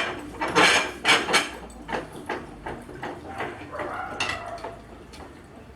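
Metal knocks and clinks of a motorcycle clutch basket being set into a bench vise and clamped, several sharp strikes in the first two seconds, then a short scraping sound about four seconds in.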